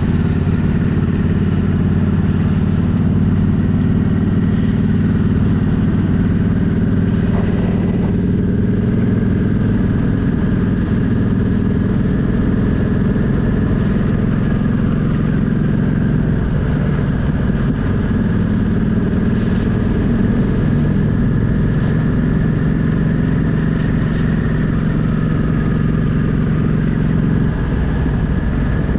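Motorcycle engine running at a steady, even pitch while riding, loud and unbroken, with only small changes in engine speed.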